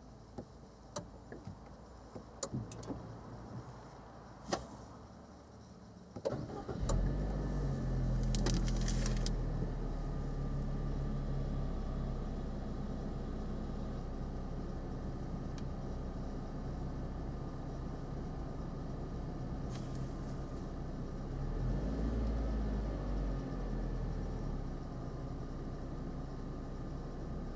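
A few sharp clicks, then the Nissan Juke 16GT's 1.6-litre turbocharged four-cylinder engine cranks and starts about six seconds in. It settles into a steady idle, briefly louder around three-quarters of the way through.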